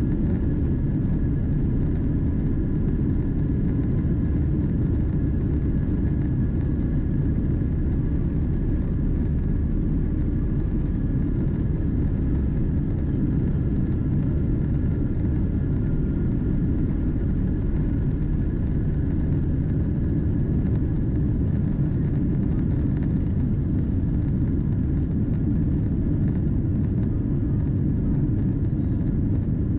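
Boeing 777-200ER jet engines heard from inside the passenger cabin during takeoff: a steady, loud low rumble with a faint high whine running over it.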